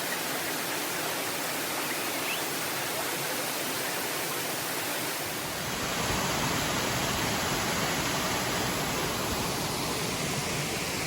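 Rushing water of a rocky mountain stream and waterfall, a steady hiss that grows a little louder and deeper about halfway through.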